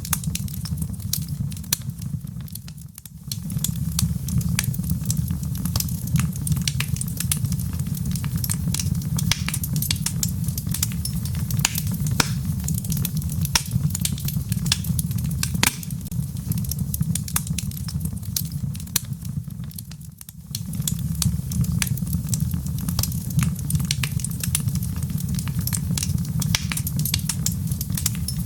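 Wood fire burning in a fireplace, crackling with many sharp pops over a steady low rumble. The sound dips briefly twice, about three seconds in and again about twenty seconds in.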